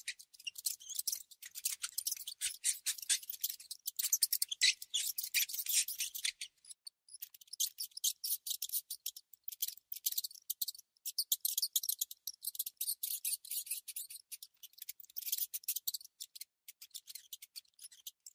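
Mouse sound: rapid, high-pitched scratchy clicking in long runs, with a brief break about six and a half seconds in.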